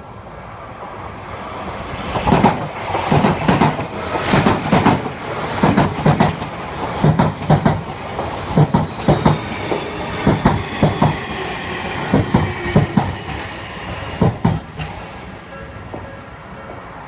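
Electric train passing, its wheels clattering over the rail joints in a long run of sharp knocks that builds about two seconds in and dies away near the end.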